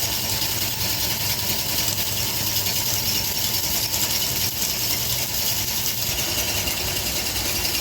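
A motor or engine running steadily, with a low hum and a faint constant whine.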